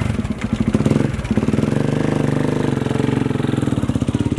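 Motorcycle engine idling close by with a fast, even beat; a little uneven in the first second, then steady.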